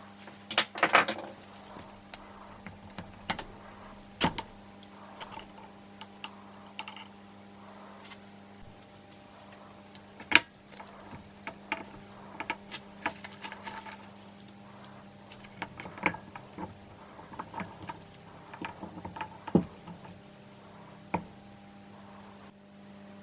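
Hand tools and metal engine parts clicking, clinking and knocking irregularly as a Honda CB450 engine is taken apart on a workbench. A steady electrical hum runs underneath.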